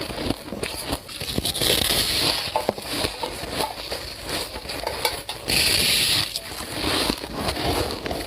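Soft ice being bitten and crunched between the teeth: dense crackling crunches, with louder crunches about two seconds in and again around six seconds.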